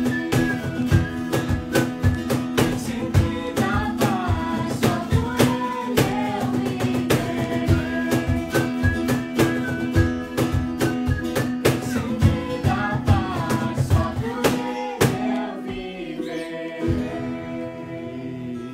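Live band music: singing over guitar and a steady drum beat. The drums drop out about fifteen seconds in, leaving held guitar chords as the song winds down.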